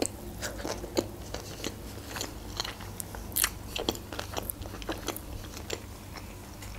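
A person chewing a mouthful of sushi roll with cheese, close to the microphone: irregular wet mouth clicks and smacks, a few a second.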